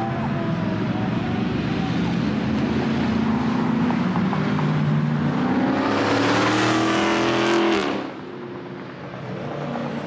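A car accelerating hard as it pulls away down the road, its engine and exhaust note rising in pitch for several seconds, then dropping off abruptly about eight seconds in.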